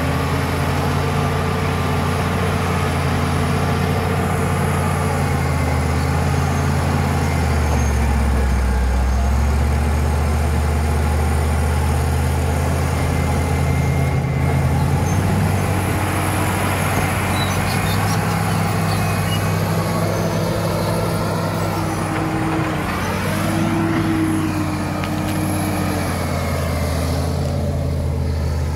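Caterpillar D7 crawler dozer's diesel engine working steadily, a deep drone that sags in pitch for a couple of seconds about eight seconds in and shifts again a few seconds before the end, with a faint high whine above it rising and falling.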